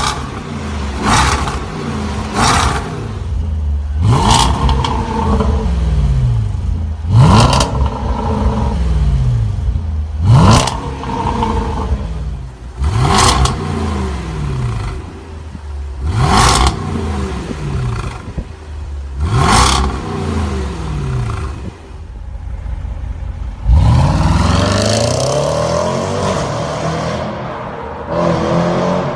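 2019 Range Rover SVR's supercharged 5.0-litre V8 being revved again and again: about eight quick blips, each with a sharp crack from the exhaust and the revs falling back down. Near the end one longer rev rises and dies away.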